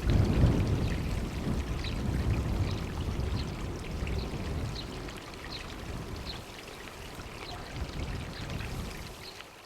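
Railway train rumbling past and fading away, with faint regular clicks over the dying rumble.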